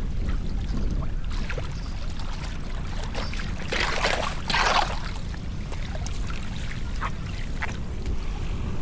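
Floodwater trickling and splashing, with one louder splash about four seconds in, over a steady low rumble.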